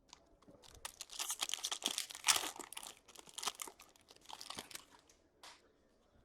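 Packaging crinkling and tearing as trading card packs are opened by hand: a dense run of crackling and rustling with sharp snaps, then one short rustle near the end.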